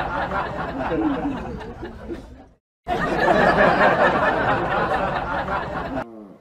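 A dense babble of overlapping voices with laughter. It breaks off for a moment near the middle, resumes, then stops; at the very end a small dog gives a short falling whine.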